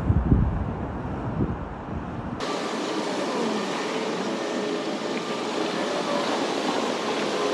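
Subway cars rolling along the track. A heavy low rumble breaks off abruptly after about two seconds and gives way to a steady rolling noise with thin, wavering wheel squeals.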